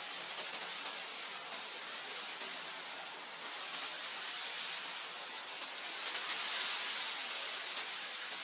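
Wind blowing through grassland: a steady rushing hiss that swells for a second or so about six seconds in.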